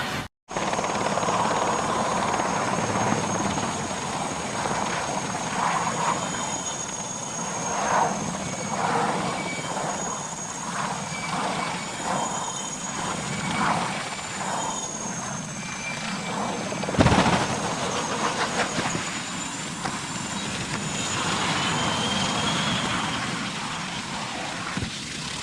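Helicopter running, its engine whine and rotor noise steady with a thin high whine wavering over the noise. About seventeen seconds in there is a single sudden loud bang.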